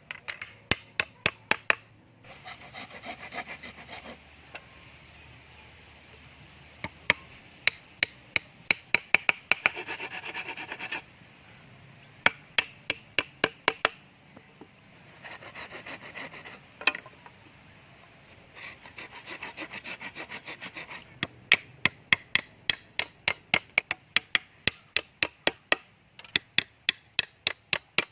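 Wood being worked with hand tools: runs of quick sharp knocks, several a second, alternate with stretches of rasping saw strokes.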